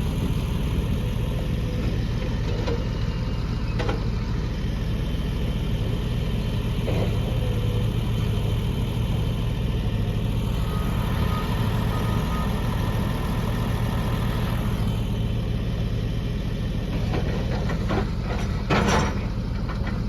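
Caterpillar D6R dozer's C9 diesel engine idling steadily, with a few sharp clicks and a clunk near the end.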